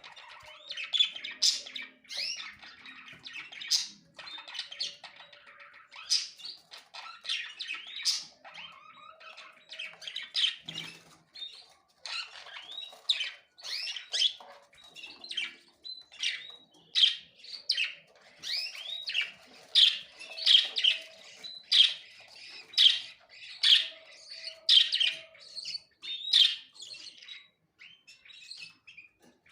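Small birds chirping and twittering: a busy string of short, high calls, more frequent from about halfway through.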